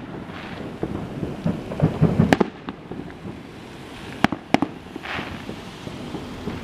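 Neighbourhood fireworks going off: low rumbling booms with sharp cracks, one about two seconds in and a pair of the loudest just after four seconds, then a short hiss about five seconds in.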